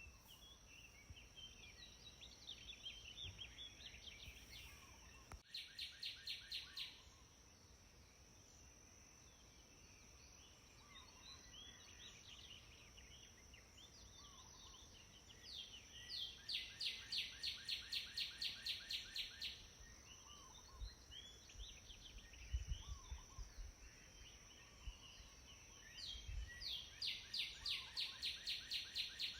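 Birds singing outdoors: three times, a rapid trill of evenly spaced, repeated high notes lasts a few seconds, with scattered short chirps between. A steady faint high whine runs underneath throughout.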